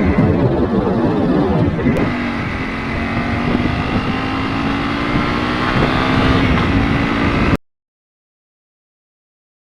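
Motorcycle engine running at steady speed with wind rushing over the camera microphone. A steady engine note settles in about two seconds in and creeps slightly higher, then the sound cuts off abruptly to silence near the end.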